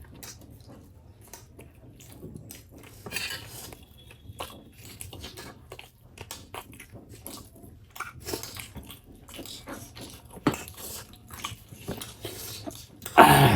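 Close-up chewing and biting of food, with scattered wet clicks and smacks and an occasional clink of cutlery or dishes. A brief, louder sound comes near the end.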